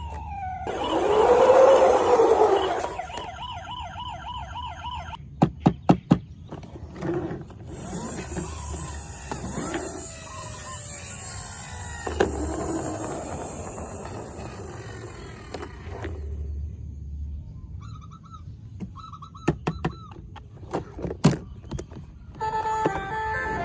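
A siren wailing, rising and falling, loudest in the first few seconds. It is followed by a fast repeating beeping tone, a quick run of sharp clicks, and scattered quieter clicks and short tones.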